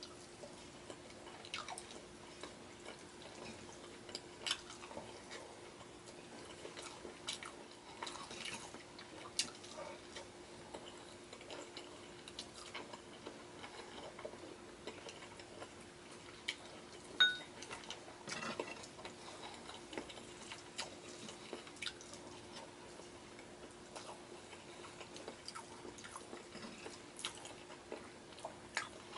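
Close-up eating sounds of a man eating beef stew and rice by hand: soft chewing with many small wet lip smacks and clicks. One sharper click with a short ring comes a little past halfway, and a faint steady hum runs underneath.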